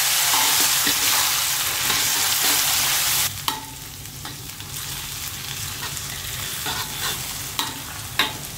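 Chopped chilies, shallots and garlic sizzling in hot oil in a wok, stirred with a metal spatula. The sizzle is loud at first, then drops abruptly about three seconds in to a quieter frying with a few sharp scrapes of the spatula against the wok.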